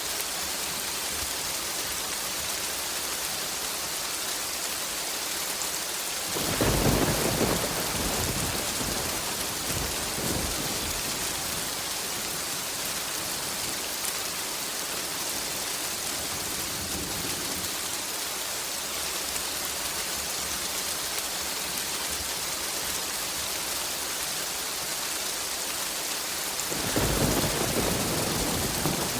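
Steady rain hiss with rolling thunder: one long rumble starting about six seconds in, swelling again a few seconds later, and another roll of thunder beginning near the end.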